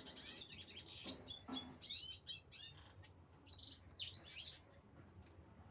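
Small birds chirping and twittering in quick, overlapping calls, with a brief noise about a second in.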